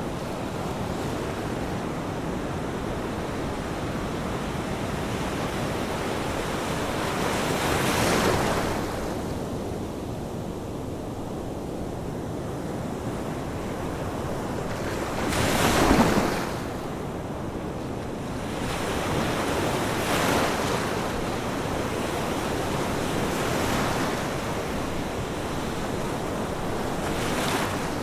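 Ocean waves: a continuous wash of surf that swells as a wave breaks every few seconds, the strongest about halfway through.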